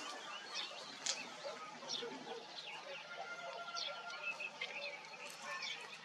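Small birds chirping in a morning chorus: many short, high calls overlapping, with one held whistled note lasting about a second in the middle.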